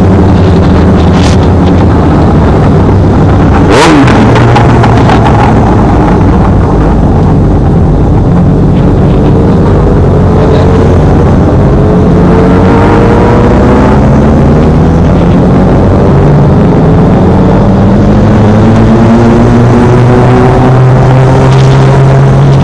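Honda CBR600F sport motorcycle's inline-four engine running under way, its pitch climbing again and again as it pulls through the revs. There is a sharp knock about four seconds in.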